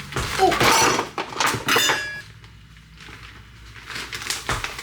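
Clattering and clinking of objects being handled, busy and loud for about the first two seconds, then quieter with a few scattered knocks.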